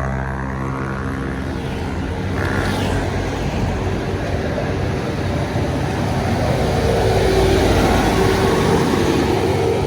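Trucks and buses passing close by on a road: engine drone and tyre noise, one vehicle going past about two and a half seconds in and another drawing near in the last few seconds.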